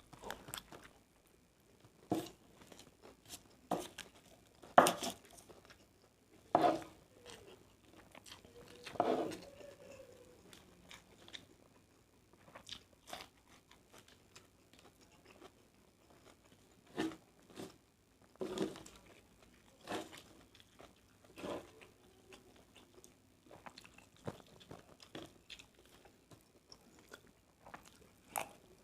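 A person eating fried rice close to the microphone: chewing with irregular short, sharp mouth and eating sounds every second or two, the loudest about five seconds in.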